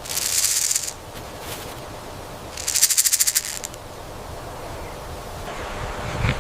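Porcupine tail quills rattling: two short bursts of fast, dry, high-pitched rattling, each about a second long, the first right at the start and the second a few seconds later. In a crested porcupine this is a warning display aimed at a threat.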